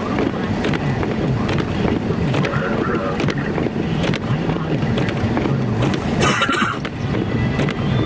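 Car running through snow, heard from inside: a steady engine and road rumble with wind noise and many light ticks. A short loud hiss comes about six seconds in.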